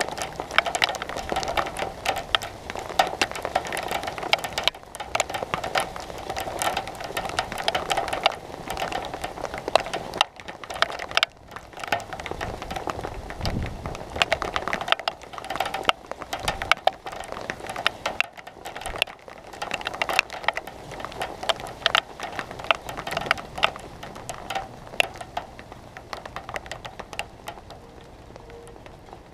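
Rain drops pattering hard and fast on a metal surface close to the microphone, a dense run of sharp ticks, with a brief low rumble near the middle.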